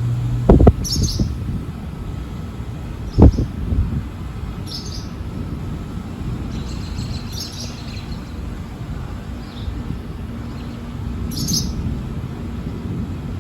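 Thunderstorm at night with two sharp, short thunder cracks, about half a second in and about three seconds in, over a steady hiss. A brief high chirp repeats every three to four seconds.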